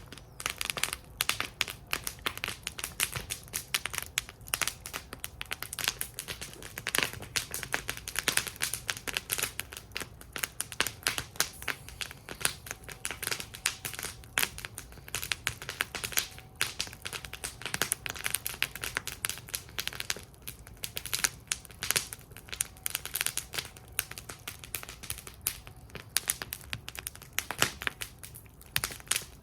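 Wood fire in a fire bowl crackling and popping: a dense, irregular run of sharp snaps.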